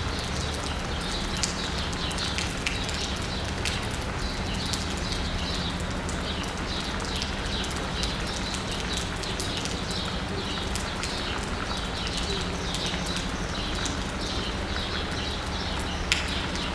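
Steady rain falling on asphalt and rooftops while many songbirds chirp continuously, over a low steady hum; a single sharp drip or click near the end.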